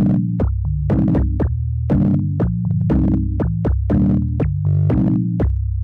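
Electronic music from software synthesizers: a synthesized drum hit about twice a second over low, held bass notes.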